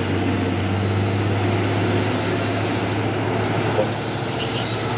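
Heavy diesel truck engine running steadily, a constant low drone.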